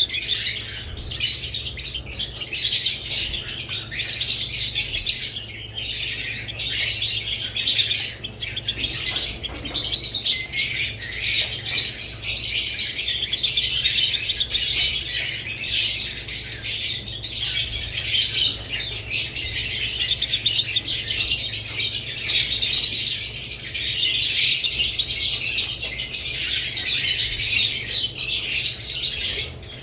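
A flock of budgerigars and lovebirds chirping and chattering without pause, with many calls overlapping.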